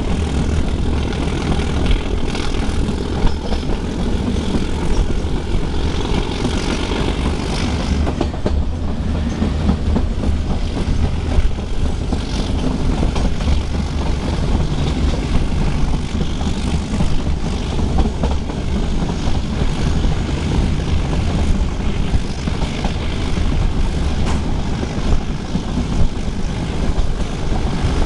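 Metre-gauge train running on the track: a steady loud rumble with irregular clicking of wheels on rails throughout.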